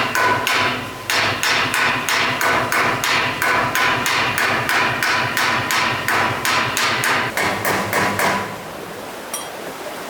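A hammer striking rapidly and evenly, about four blows a second, with a metallic ring. It pauses briefly about a second in and stops about eight seconds in, leaving the steady rush of flowing water.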